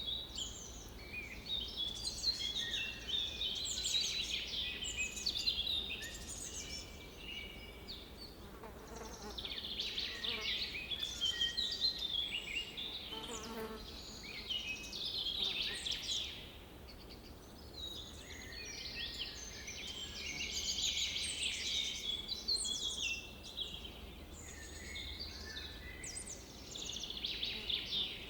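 Songbirds singing outdoors in overlapping, chirping phrases that come and go in clusters, with a steady low hum underneath.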